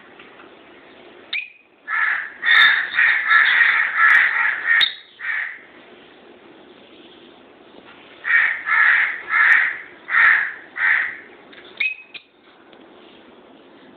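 Peach-faced lovebirds calling: two runs of loud, high-pitched repeated calls, the first of several quick calls and the second, after a pause of a few seconds, of five spaced calls, with a single short chirp before each run ends.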